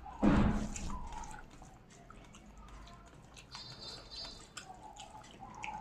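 Close-up chewing and wet mouth sounds of someone eating rice and curry, with one loud smack just after the start and then quieter small clicks.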